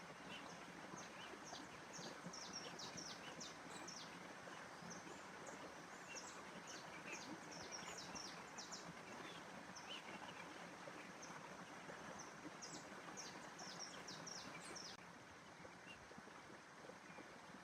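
Birds chirping: many short, high chirps, each sliding quickly downward, over a steady faint hiss of outdoor ambience. The chirping stops about fifteen seconds in.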